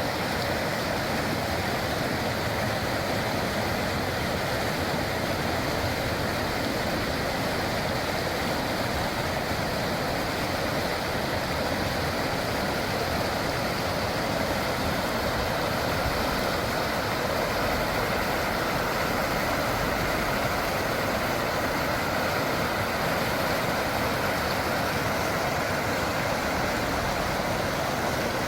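Steady rush of flowing river water from the Donggang river, an even noise with no change in level.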